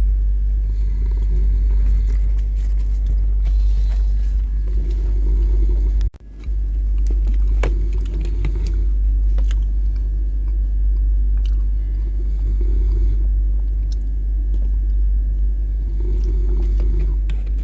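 Steady low rumble of a moving passenger train, with scattered clicks and rattles. The sound cuts out briefly about six seconds in.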